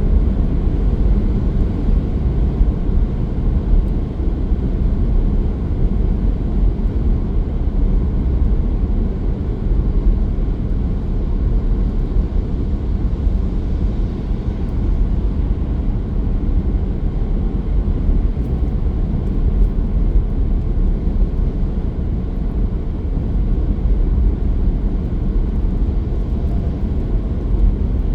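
Steady low rumble of a car driving along the road, tyre and engine noise with no change in pace.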